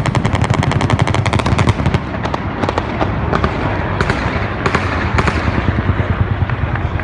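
Machine gun fired from a helicopter in a long rapid burst that stops about two seconds in, followed by scattered single shots and short bursts over a low rumble.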